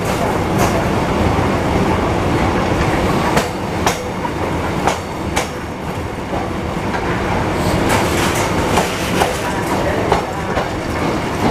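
Train running along the track: a steady rumble broken by irregular sharp clacks of the wheels passing over rail joints.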